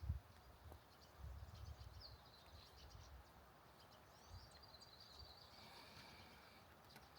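Faint forest birdsong: scattered high chirps and, from about four seconds in, a thin sustained trilling call, with a few soft low thumps near the start.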